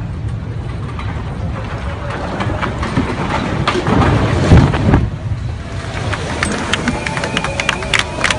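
A train going by: a low rumble that builds to a peak about halfway, then fades, with a run of sharp clicks over the last few seconds.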